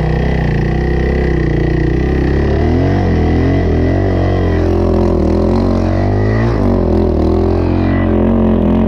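Dirt bike engine running at low revs, a steady low drone whose pitch wavers up and down slightly.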